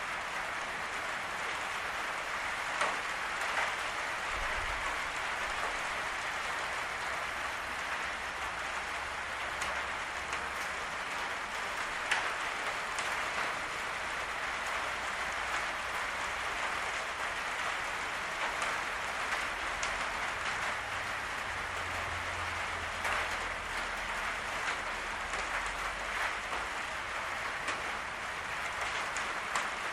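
Steady rain drumming on a patio roof, with scattered individual drops ticking over the hiss. A faint low rumble sits underneath twice.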